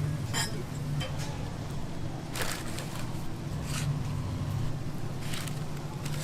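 Steady low hum of kitchen equipment, with three short scraping or hissing noises about two and a half, four and five and a half seconds in.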